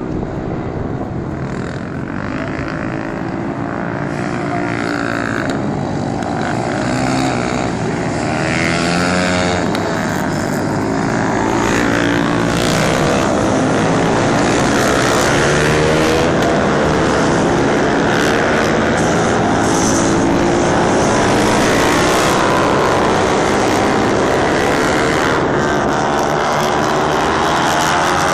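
Motorcycle engines running and revving, their pitch rising and falling again and again, growing louder about twelve seconds in.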